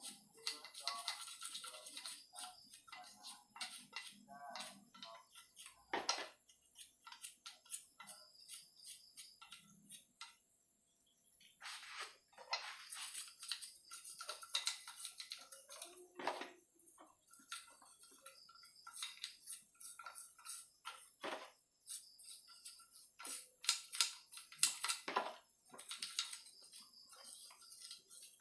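A soft toothbrush scrubbing grime off a motorcycle engine's aluminium crankcase in many short, irregular scratchy strokes, with brief pauses.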